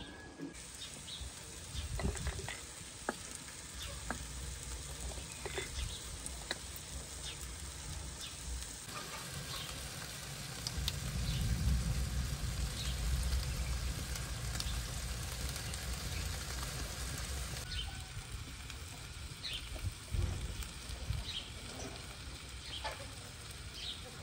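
Food sizzling as it fries in a wide wok over a wood fire: a steady hiss with scattered sharp crackles. The sizzle grows louder about nine seconds in and eases again a few seconds later.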